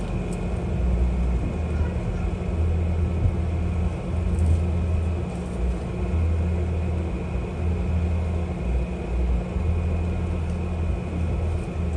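Ford 6.0 Powerstroke turbodiesel idling, a steady low rumble with a thin steady high whistle from the turbo, while gusts of wind buffet the microphone.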